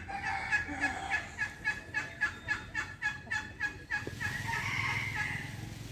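Domestic fowl calling: a fast run of short, evenly spaced clucks, about four a second, ending in a longer drawn-out call.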